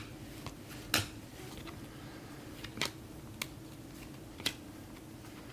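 Topps Chrome trading cards being flipped through by hand, with a sharp click or snap about five times as each stiff card slides off the next. A faint steady low hum lies underneath.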